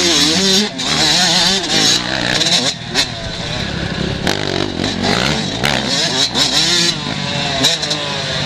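Several 125 cc two-stroke motocross bikes racing, their engines revving hard with pitch repeatedly rising and falling as riders work the throttle and shift gears.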